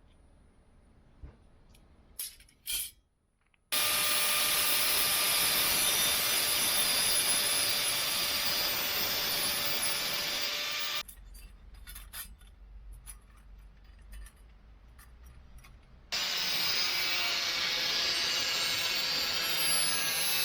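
A power tool working in two long runs, a steady whine over a hiss, each starting and stopping abruptly, with quieter clicks and taps in between.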